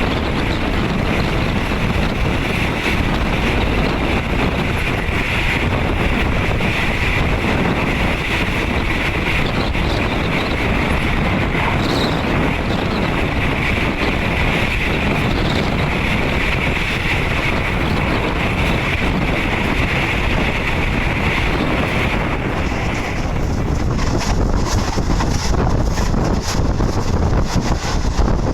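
Steady running noise of a moving passenger train, heard from inside a third-class carriage, with wind buffeting the microphone. About 23 seconds in, the hiss shifts higher and gets a little louder.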